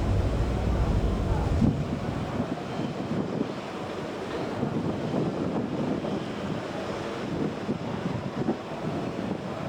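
Water washing and splashing with wind buffeting the microphone. A deep rumble, the tugboat's engine, is strong at first and drops away about two seconds in.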